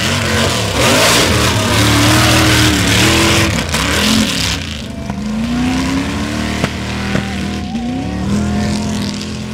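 Chevy truck engine revving hard, its pitch rising and falling again and again as it powers through a mud-bog run. For the first few seconds a loud rushing noise of spinning tires and flung mud runs over it, then dies down while the engine keeps revving.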